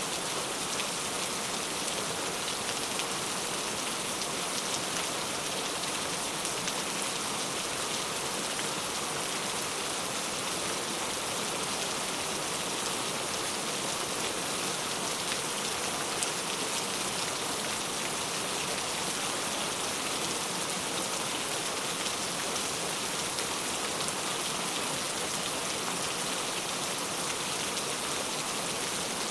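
Steady rainfall: an even hiss of rain with fine drop ticks on a surface, one a little louder about 16 seconds in.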